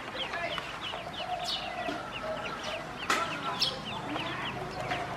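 A group of ducklings peeping continuously: many short, high, falling peeps several times a second, with a few sharp ticks about one and a half and three seconds in.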